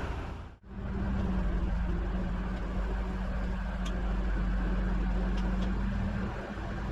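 Rollback tow truck's engine running steadily: a low rumble with a constant hum, starting after a brief gap just over half a second in, with a few faint clicks.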